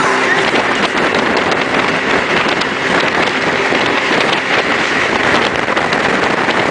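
Jet boat under way at speed: a steady mix of engine and water noise with wind buffeting the phone's microphone.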